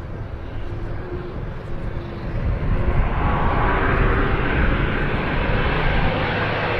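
Jet aircraft engine noise, a steady rushing sound that grows louder and brighter about two and a half seconds in.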